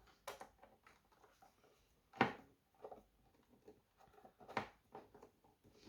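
A few short, separate knocks and clicks of robot-vacuum parts being handled and fitted during reassembly, the loudest about two seconds in.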